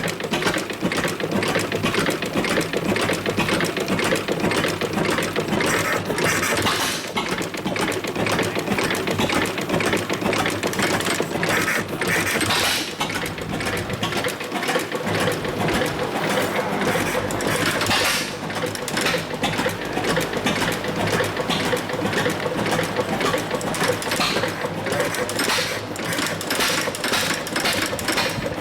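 Frisco Standard 10 hp two-cylinder gas boat engine running steadily, with a fast, even run of firing beats.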